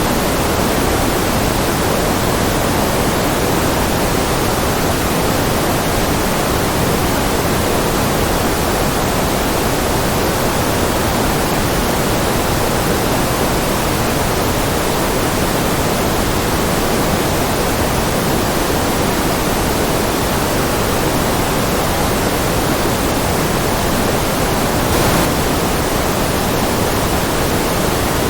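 Steady, unchanging synthetic white noise: a full, even hiss with more weight in the middle and lower range than at the top, close to pink noise.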